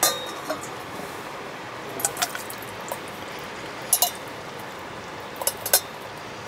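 Metal utensils clinking and tapping against a cooking pot a handful of times, over a steady rushing background.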